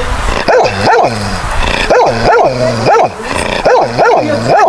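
A dog barking repeatedly, in quick groups of two or three barks.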